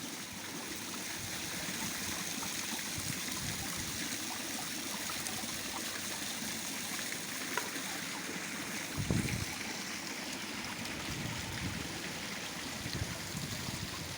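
Water from a built garden waterfall running steadily over stones into a koi pond, with a brief low thump about nine seconds in.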